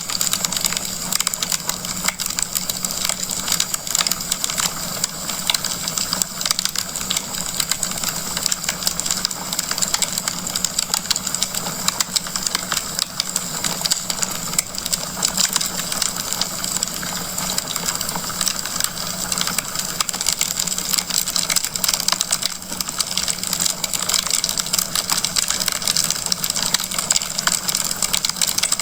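Wood fire crackling in a fireplace: a dense, steady stream of small pops and crackles over a soft hiss.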